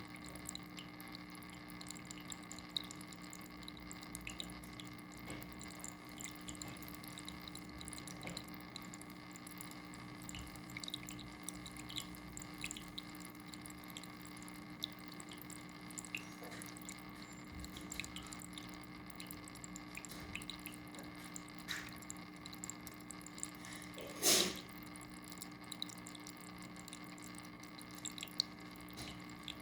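Water dripping: scattered small drips over a steady low hum, with one louder sound about three quarters of the way through.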